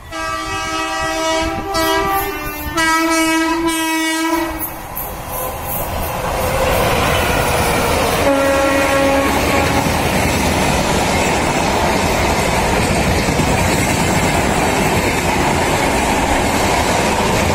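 WAP-4 electric locomotive's horn sounding two long blasts as the express approaches, then a shorter, lower horn note about eight seconds in as the locomotive passes. The loud, steady running noise and track clatter of the LHB coaches at speed builds from about five seconds in and holds to the end.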